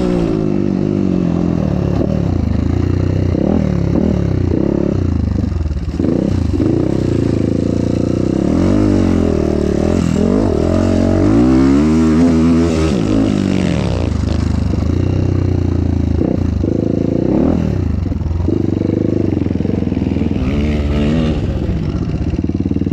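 Motocross bike's engine running while it is ridden, its pitch rising and falling again and again as the rider throttles up and backs off, with wind noise over it.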